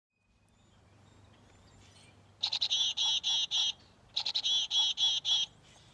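Recorded chickadee calling: two quick runs of rapidly repeated notes, the "dee-dee-dee" part of its chick-a-dee call, with a short pause between them.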